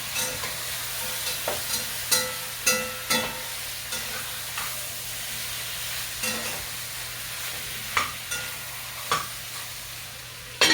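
Curry chicken frying and sizzling in a dutch pot as it is stirred, with a steady hiss. A metal spoon knocks against the pot several times, each knock ringing briefly, a cluster of them about two to three seconds in and more near the end.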